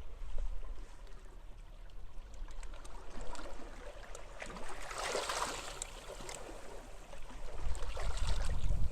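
Small sea waves washing and lapping on the shore, with one swell of splashing about five seconds in. Wind gusts on the microphone make a low rumble at the start and again near the end.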